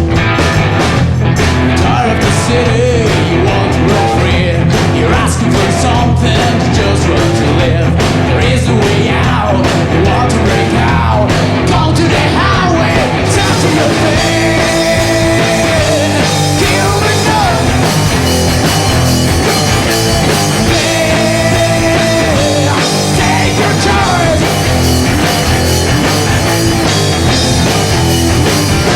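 Rock band playing live: electric guitar, bass and drums with a singer. The sound fills out in the highs about halfway through, as the full band comes in harder.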